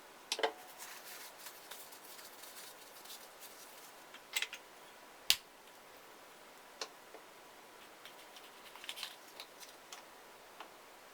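Scattered small clicks and knocks of objects being handled, the sharpest a single click about five seconds in.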